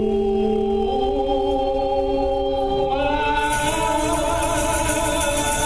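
Music of long held notes, several pitches sounding at once like a sung chord, stepping to new notes about a second in and again about three seconds in. A high, shimmering rattle joins at about three and a half seconds.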